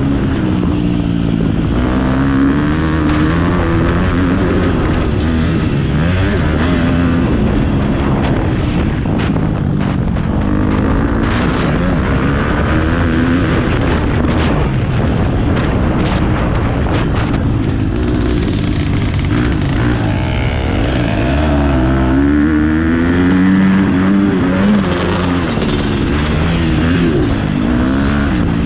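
Motocross dirt bike engine being ridden hard, revving up and dropping back again and again through the gears and throttle changes.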